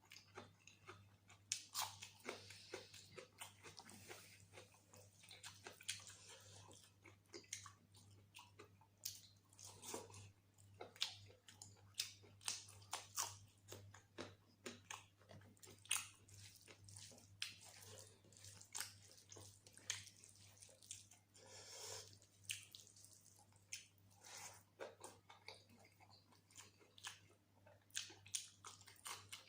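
Close-up chewing and mouth sounds of someone eating mutton curry and rice: irregular short smacks and clicks, several a second at times, over a faint steady low hum.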